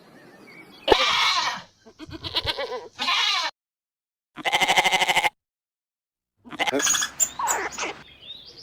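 A string of separate farm-animal calls, about five in all, each starting and stopping abruptly with short silent gaps between them; the call near the middle has a fast pulsing wobble.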